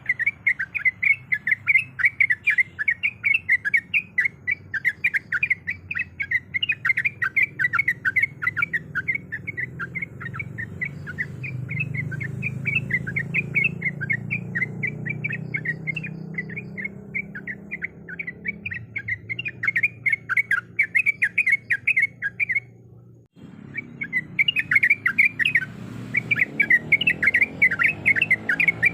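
Yellow-vented bulbul (trucuk) song as a lure recording: a fast, continuous run of bright chattering notes. The song breaks off abruptly once, a little past two-thirds of the way, then picks up again.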